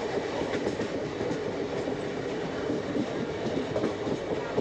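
Moving passenger train running along the track: a steady rumble with the clatter of wheels over the rails.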